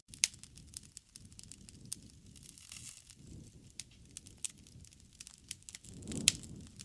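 Wood fire crackling and popping, with sharp pops at irregular intervals (the loudest just after the start and near the end) over the low, soft rush of the burning flames.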